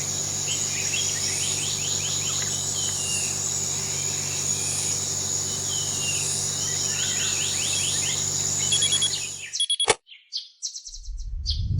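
Birds chirping and twittering over a steady high-pitched buzz and a low steady hum. The ambience cuts off abruptly about three-quarters of the way in. Sparse electronic blips and a rising synth sweep follow as music begins.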